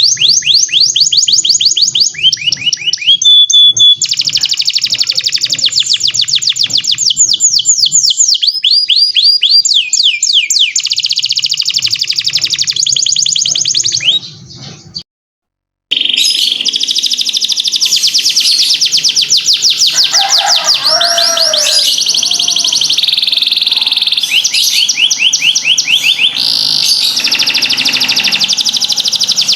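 Domestic canary singing a long, loud song of fast trills and rapid repeated notes, high-pitched, with a brief silent break about halfway before the song resumes.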